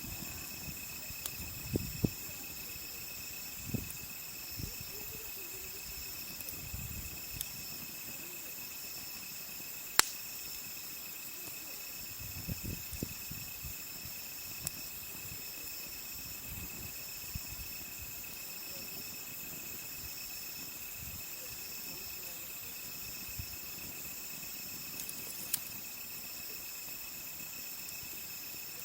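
Insects chirping in steady high trills at several pitches throughout, over a wood campfire that gives occasional sharp pops and soft low rustles. The loudest pop comes about ten seconds in.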